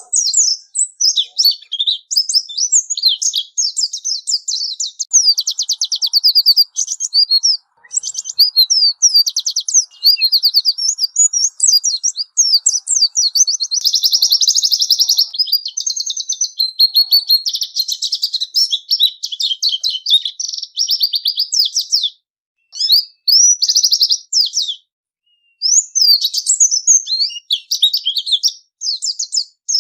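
White-eye (pleci) singing a long, rapid, high twittering song, with a couple of brief pauses in the later part.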